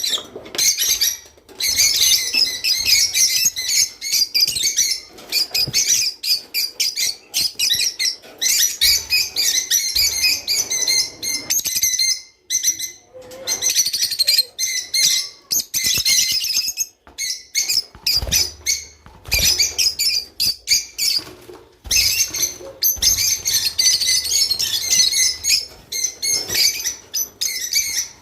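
A group of rosy-faced lovebirds chattering, a dense stream of rapid, shrill chirps with a few brief lulls.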